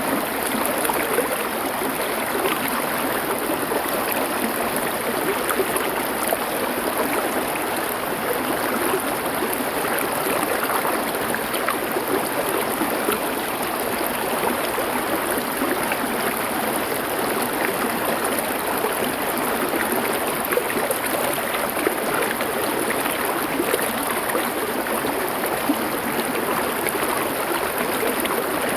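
Small river or stream flowing over stones, a steady rushing babble with small splashes and gurgles throughout.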